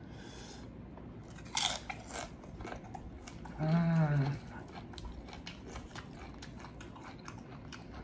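A person chewing and biting mouthfuls of Mexican seafood, with wet clicks and a few crunchy bites. About four seconds in comes a brief hummed "mmm" of enjoyment.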